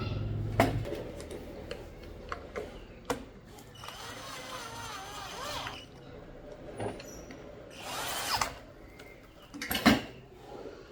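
A small electric motor, like a drill or an inflator's motor, hums steadily and stops just under a second in. It is followed by scattered clicks and knocks of parts and tools being handled, with a short hiss about eight seconds in and a sharper knock near the end.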